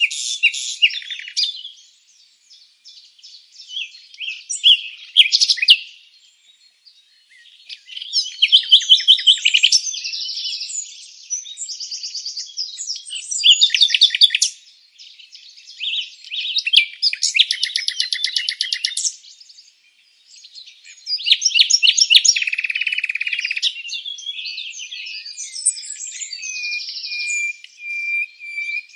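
Birdsong: varied phrases of chirps, rapid trills and sliding whistles, coming in bursts with short pauses between them.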